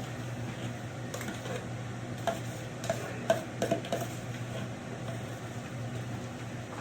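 A spoon stirring wet, creamy filling in a cooking pot, with a few light taps and scrapes against the pot, mostly in the middle seconds, over a low steady hum.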